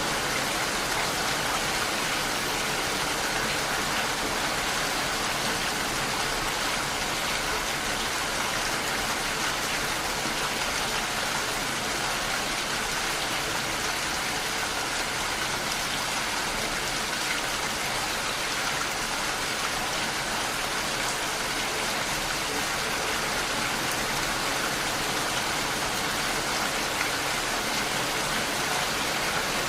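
Steady rain falling, an even continuous hiss of drops with no pauses.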